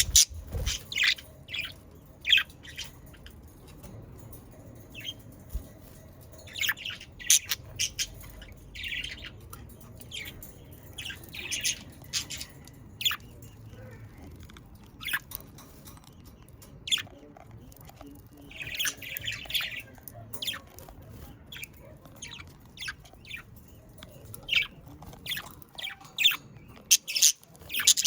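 A flock of budgerigars chattering, with many short high chirps and warbles, busiest near the end.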